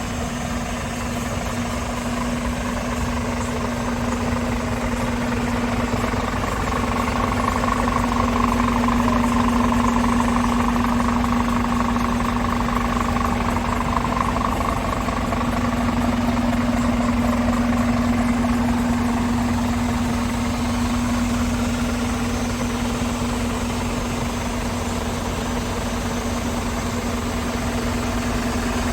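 Scania P410 truck's 13-litre six-cylinder diesel engine idling steadily, with a constant hum that swells gently a couple of times.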